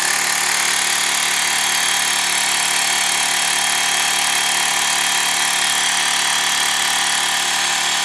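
Xiaomi Mi Portable Electric Air Compressor running unloaded after a press of its centre button, a loud steady buzzing drone from its small electric motor and piston that starts suddenly and holds an even pitch.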